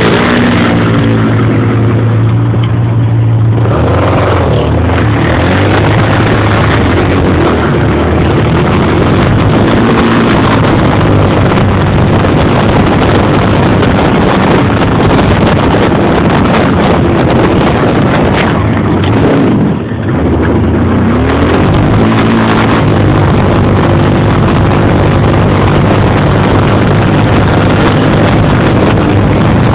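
Quad bike engines running continuously, their pitch rising and falling in places, under a dense, steady rush of noise.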